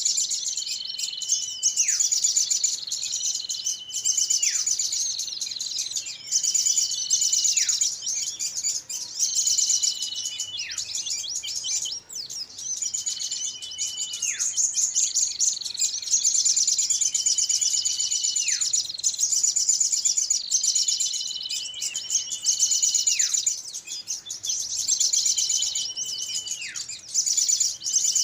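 Bird-lure recording of noisy small songbirds: a clear whistle that holds, then drops sharply, repeated about every two seconds, over dense high, fast chattering trills.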